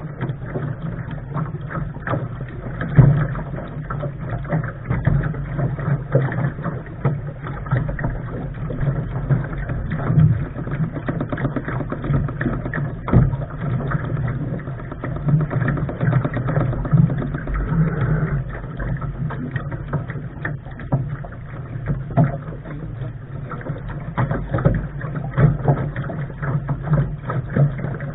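Lark sailing dinghy under way: an uneven rush of wind and water noise on the bow-mounted camera that swells and drops continually, with occasional knocks, the loudest about three seconds in and again near the middle.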